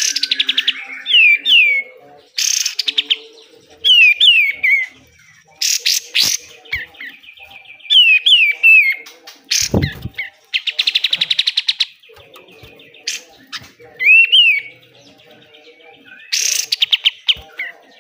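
Kapas tembak (katem) singing: short swooping whistled notes alternating with rapid harsh rattling trills, the besetan, repeated in phrases. A single low thump about ten seconds in.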